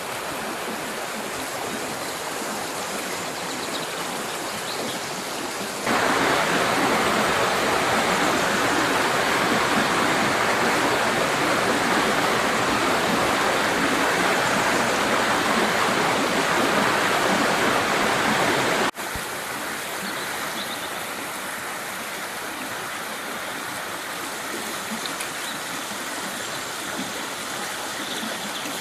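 Mountain river water rushing steadily over rocks. It jumps abruptly louder about six seconds in and drops back just as suddenly about nineteen seconds in.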